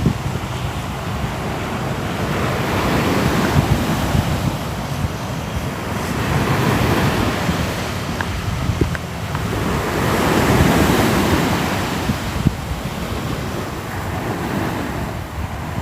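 Ocean surf with waves washing ashore, rising and falling in slow swells about every three to four seconds. Wind buffets the microphone with a low rumble.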